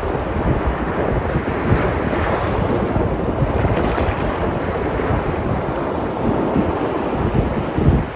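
Sea surf washing onto the shore in a continuous rush, with wind buffeting the microphone.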